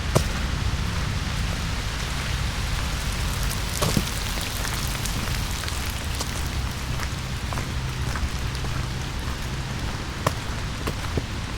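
Rain falling in a forest, a steady patter on wet leaves, with a few louder single drops, the sharpest about four seconds in.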